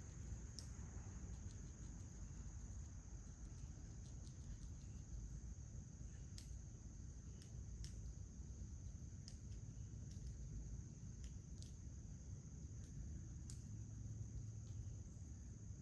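Faint outdoor ambience: a steady, high, thin drone of insects, with scattered short high ticks and a low rumble underneath.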